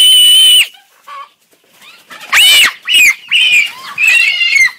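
Chicken squawking loudly: one long harsh squawk, then four shorter squawks in the second half.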